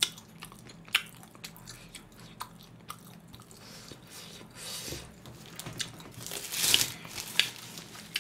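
A person chewing and biting spicy pork ribs close to the microphone: soft wet mouth sounds and scattered small clicks, with a longer hiss about six and a half seconds in.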